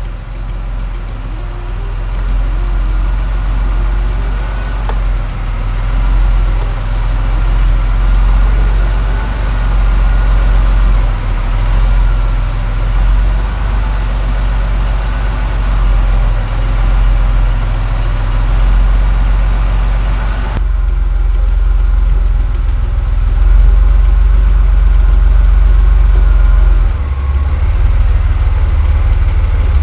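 Porsche 964 Carrera 2's air-cooled 3.6-litre twin-plug flat-six idling steadily. About two-thirds of the way through, the sound turns louder and deeper.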